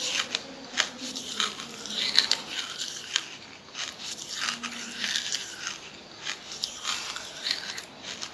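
Charcoal being bitten and chewed: irregular sharp crunches, several a second at times, throughout.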